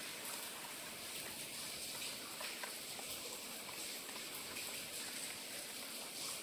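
Steady rain falling: an even hiss with a light, scattered patter of drops.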